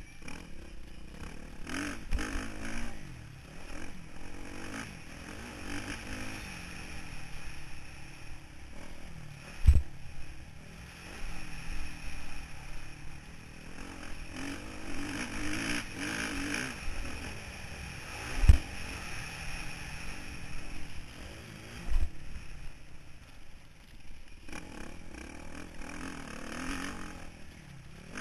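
Motocross bike engine heard from onboard, revving up and easing off as it is ridden around the track, with three heavy thuds spread through the stretch.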